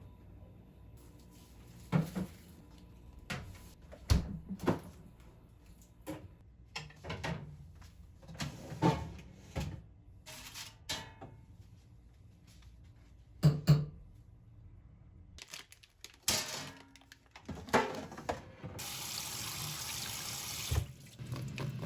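Kitchen handling sounds: scattered knocks and clinks of things being set down, then a tap running for about two seconds near the end.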